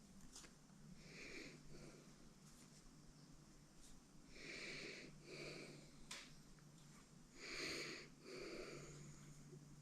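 Faint, heavy breathing from a man straining at a job: several breathy exhales, about a second in, twice around the middle and twice near the end, with a couple of light clicks over a faint steady hum.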